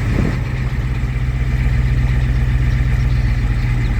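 Large truck engine idling steadily with an even low pulse, shortly after a cold start following months of storage.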